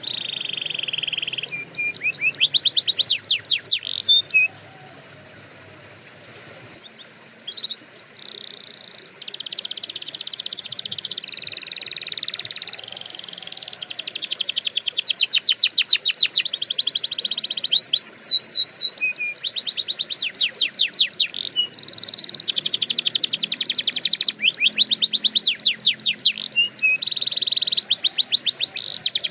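Domestic canary singing: long rolling trills and fast runs of repeated high notes in phrases of a few seconds, with a break of a couple of seconds about five seconds in.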